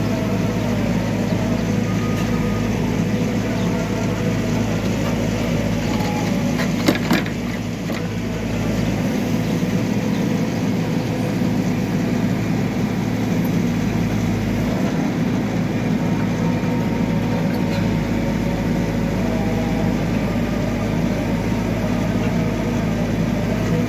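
Backhoe loader's diesel engine running steadily, with a single sharp clank about seven seconds in.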